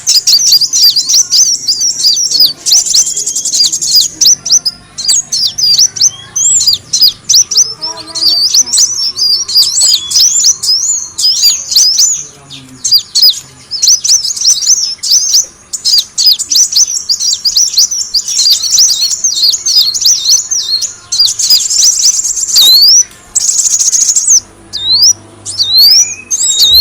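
Sunbird (kolibri wulung) lure call: a rapid, continuous run of high-pitched chirps and short twittering swoops, one after another, with only brief breaks.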